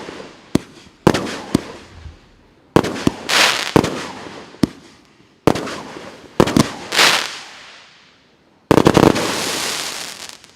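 'Samurai' consumer fireworks battery (cake) firing: sharp bangs come every second or so, some in quick pairs, each trailed by a fading crackle. About nine seconds in, a louder, dense crackling volley lasts over a second.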